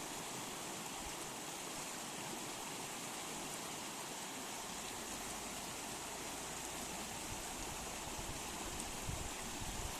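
River water rushing in a steady, even flow, the river swollen with snowmelt.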